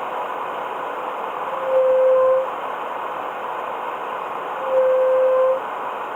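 Air-conditioning system of a 2007 Honda Step WGN (RG1) running with a steady whir, over which a droning 'wōn' hum swells twice, about three seconds apart and each under a second long. The AC is on but not blowing cold; the cause of the noise is unknown, and the owner means to check the condenser fan motor next.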